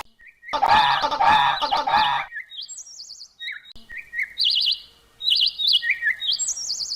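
Bird calls: a harsh, pulsing call lasting about two seconds, then a run of short, high, trilled chirps and whistles.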